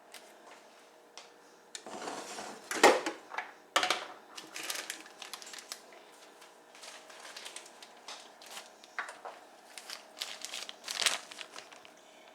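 Packaging crinkling as it is handled, in irregular bursts, with a sharp knock about three seconds in.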